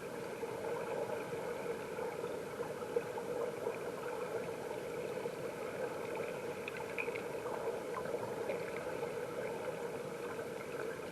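Mountain stream water flowing, heard with the camera under water: a steady gurgling rush with a few faint ticks.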